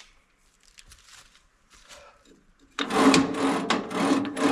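Sawmill's blade-engagement mechanism pulled back and forth by hand to check it isn't frozen, metal sliding on metal with a loud grating squeal in several strokes starting near the middle, after a few faint clicks.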